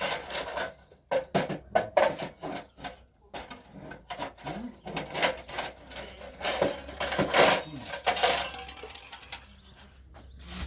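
Dishes and pots being handled, clattering with irregular clinks and knocks, busiest a little past the middle.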